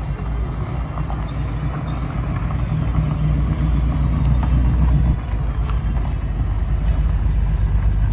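Car engine running with a steady low rumble, growing louder about three seconds in and dropping off suddenly about five seconds in.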